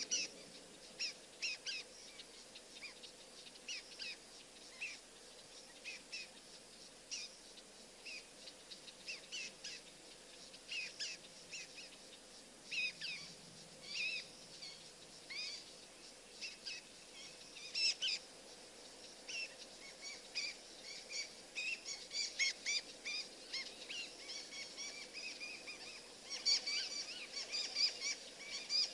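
Birds chirping and calling: many short, high chirps coming thick and fast near the end.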